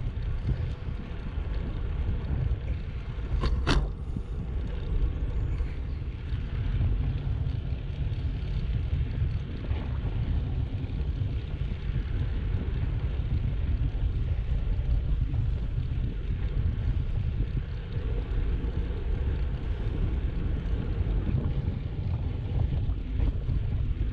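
Wind buffeting the microphone of a GoPro on a moving bicycle, a steady low rumble with road and tyre noise under it. A single sharp click comes about four seconds in.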